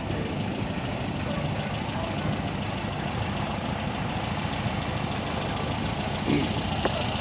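A car engine idling steadily, with one short, sharp sound about six seconds in.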